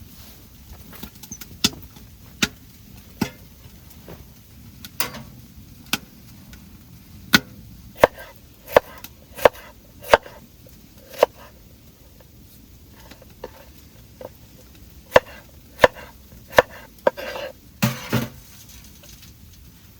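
Firewood being chopped: a series of sharp wooden blows, several in quick runs about one to one and a half a second, with a longer rough splintering sound near the end.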